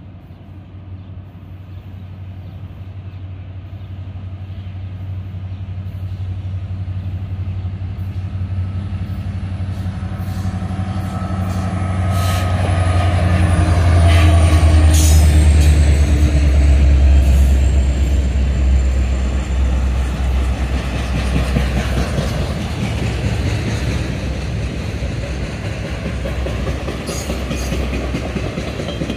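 Norfolk Southern freight train passing: the diesel locomotive's low engine rumble builds as it approaches and is loudest about halfway through as it goes by. Autorack cars follow with a steady rolling rumble and wheels clicking over the rail joints.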